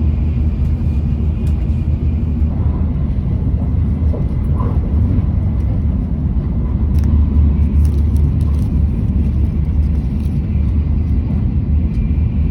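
Steady, loud low rumble of a vehicle in motion, with a few faint ticks above it.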